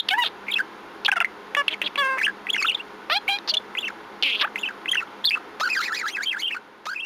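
Budgerigar chattering and warbling: a rapid, varied run of short chirps and quick rising and falling notes, mixed with a few clicks.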